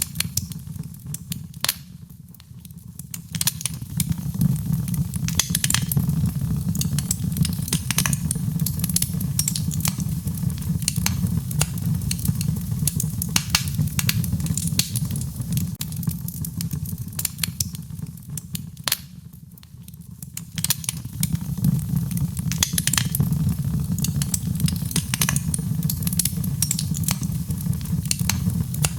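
Wood fire in a fireplace crackling, with frequent sharp pops over a steady low rumble. The sound eases off briefly twice, a couple of seconds in and again around two-thirds of the way through.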